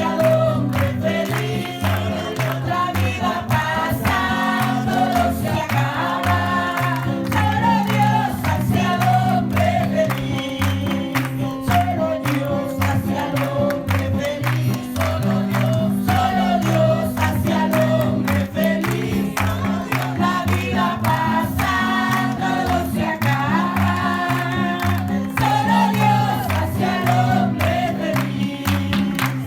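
A group singing a Spanish revival worship chorus together over a steady rhythmic instrumental accompaniment, with a bass line changing notes every second or two.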